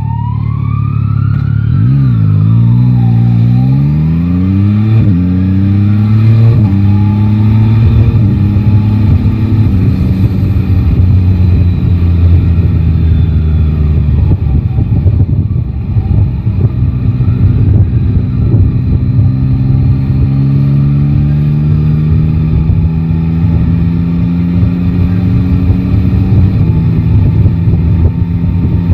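Yamaha Tracer 9 GT's inline-three engine accelerating through the gears, its pitch climbing and dropping back at each upshift over the first several seconds, then holding a steady cruise with slow rises. Wind buffets the microphone throughout. A siren wails faintly in the first few seconds.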